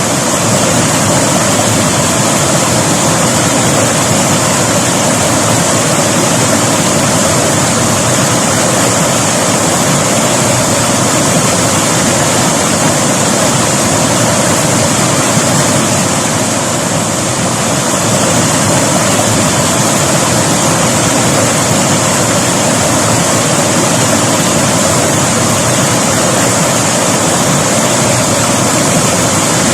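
River water rushing and splashing over rocks in a steady, loud flow, with a brief slight dip around the middle.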